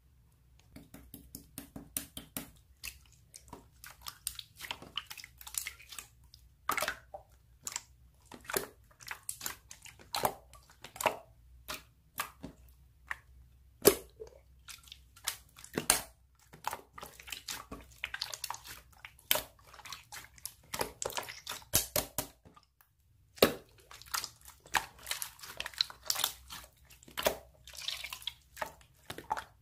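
Slime being squeezed and worked by hand: wet squishing with many sharp, irregular crackling pops and clicks.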